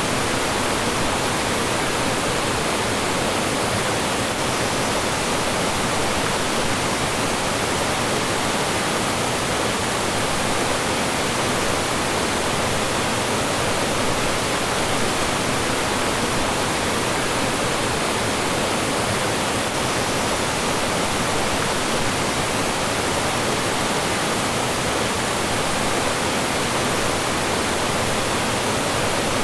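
Mountain stream rushing over rocks and small falls: a steady, loud, even rush of water.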